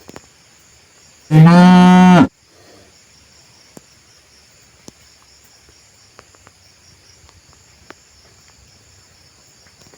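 A cow lets out one loud, level-pitched moo of about a second, a little over a second in. A steady high chirring of insects runs underneath, with a few faint clicks.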